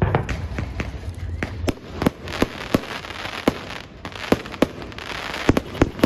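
Fireworks and firecrackers going off all around: a rapid, irregular series of sharp bangs, some echoing, over a crackle of smaller reports.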